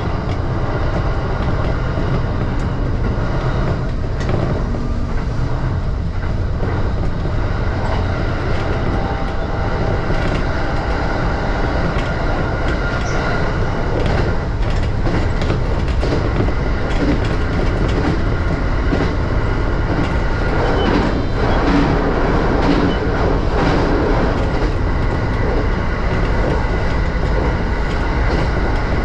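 JR East E235 series electric train running between stations, heard from inside the carriage: a steady rumble of wheels on the rails with scattered clicks.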